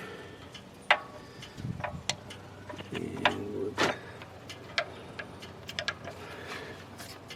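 Scattered light clicks and metal taps of a socket wrench being fitted and worked on the oil pan's 13 mm drain bolt, irregularly spaced, with a short rustle partway through.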